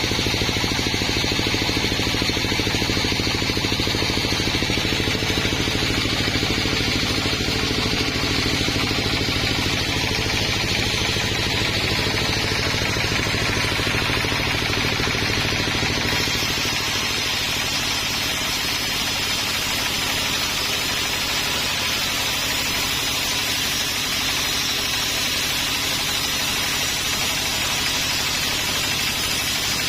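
A sawmill's engine running steadily under a constant load, with a hiss of sawing above it that shifts in tone about halfway through.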